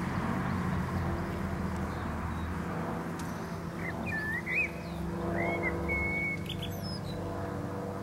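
A few short bird chirps about halfway through, over a steady low hum.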